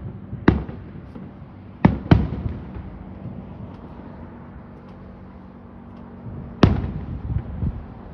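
Distant fireworks going off: four sharp booms, two of them close together near two seconds in and one about six and a half seconds in, each trailing off in an echoing rumble, with fainter pops in between.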